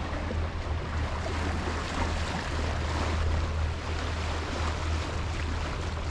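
Boat engine running with a steady low hum under the rush of wind and water as the yacht motors slowly up a shallow channel.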